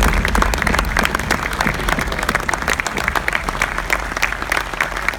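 Crowd applauding: many hands clapping in a dense patter, with a low rumble underneath that eases off about halfway through.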